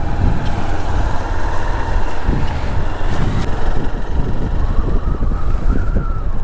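Motorcycle on the move: wind rushing over the microphone, with the engine running steadily underneath.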